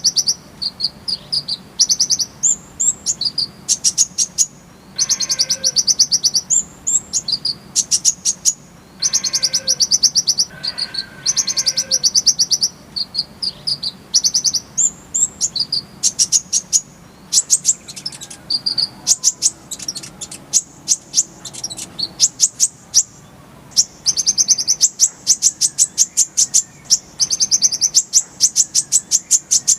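Kolibri ninja (van Hasselt's sunbird) singing: high, rapid trills and fast runs of sharp repeated notes, phrase after phrase with only brief gaps.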